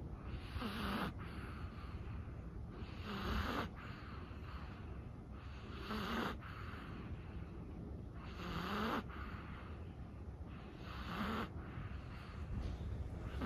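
A sleeping Chihuahua snoring, one snoring breath about every two and a half seconds, each a short breathy rasp with a low pitched rattle in it.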